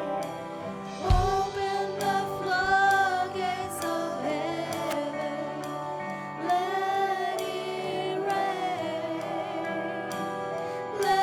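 Worship music: voices singing over long sustained instrumental chords, with one low thump about a second in.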